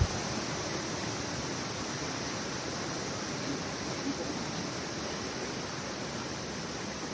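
Steady rushing hiss of flowing water from a forest river.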